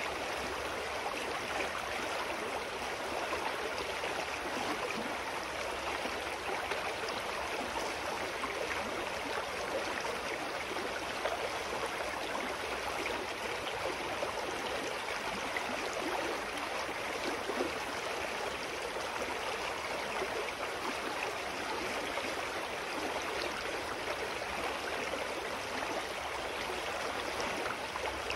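Forest stream flowing steadily: an even, unbroken sound of running water over stones.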